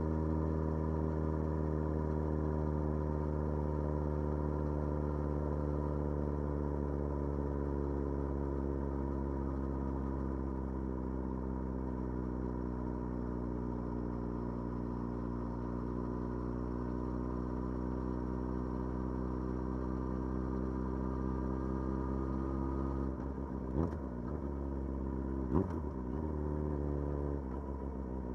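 Motorcycle engine running under way at a steady cruise, its pitch slowly sinking and then climbing a little. Near the end there are two quick dips and recoveries in engine pitch, each with a sharp click.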